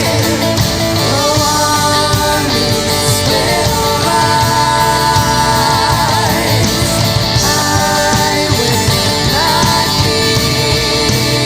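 Worship band playing a rock-style praise song with guitar, a voice holding long, wavering notes.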